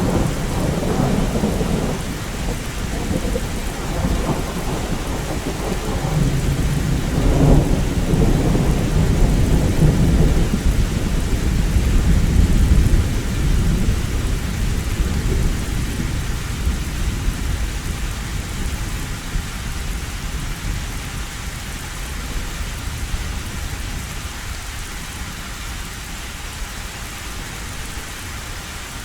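Heavy rain drumming on a metal roof, with a long roll of thunder. The thunder rumbles through the first half, swelling about halfway, then slowly dies away while the rain keeps on steadily.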